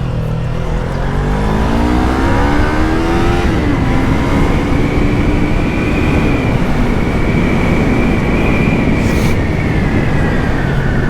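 Yamaha MT-03's parallel-twin engine through its stock exhaust, accelerating hard. The revs climb, drop sharply with an upshift about three and a half seconds in, then hold high and ease off near the end.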